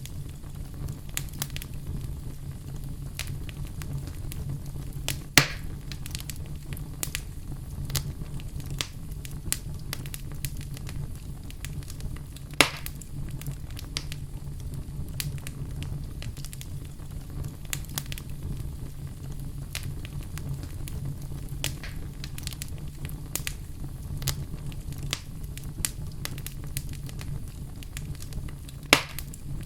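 Wood fire crackling in a fireplace: a steady low rumble with frequent small crackles and three louder pops, about five seconds in, about twelve seconds in and near the end.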